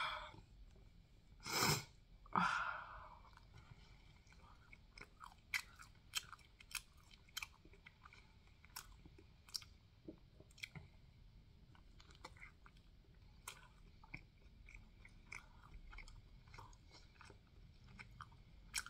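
Close-miked chewing of a filled waffle, with wet mouth clicks and smacks. Two louder bites or crunches come in the first few seconds, then steady chewing with many short sharp clicks.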